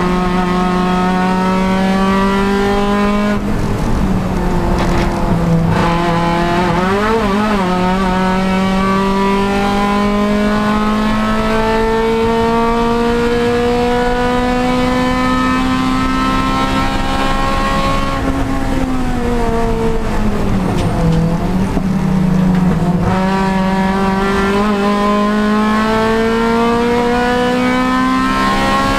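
Honda Civic Si race car's four-cylinder engine pulling hard, its pitch climbing slowly for long stretches. The pitch falls steeply about three and a half seconds in and again about two-thirds of the way through, as the car slows and shifts down for corners.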